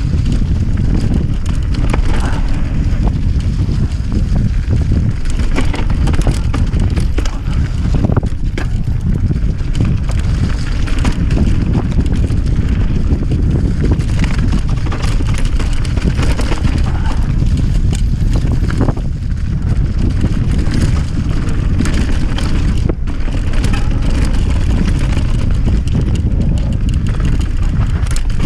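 Loud, steady rumble of wind buffeting the microphone, heavy in the low end, with scattered clicks and rattles throughout.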